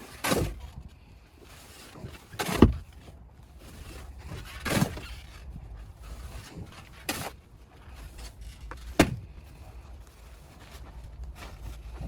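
Five loud knocks, about two seconds apart, over a low steady rumble.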